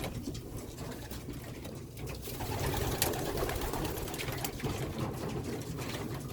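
Pigeons cooing, with a few sharp clicks mixed in.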